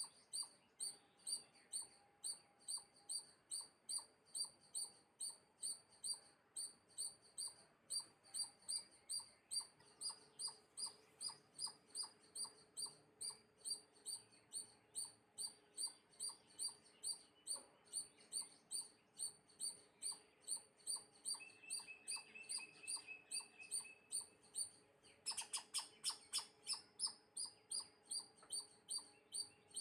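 A bird chirping over and over in a steady, even rhythm of short high chirps, about two or three a second, with a quicker flurry of chirps a little before the end.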